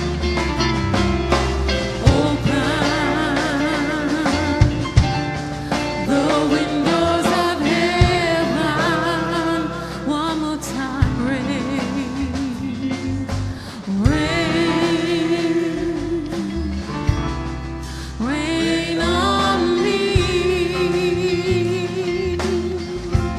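Gospel song: a singer holding long notes with heavy vibrato and sliding runs, over a band with bass and drums.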